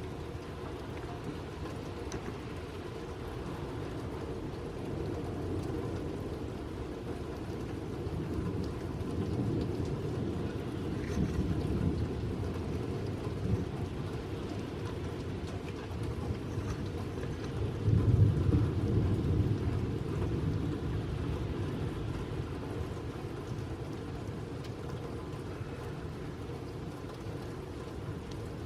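Light rain falling steadily, with a long roll of thunder that builds, is loudest about two-thirds of the way through, then dies away.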